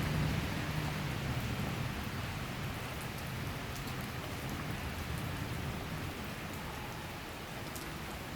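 Steady summer rain shower falling, with scattered drop ticks. A low rumble of distant thunder dies away over the first few seconds.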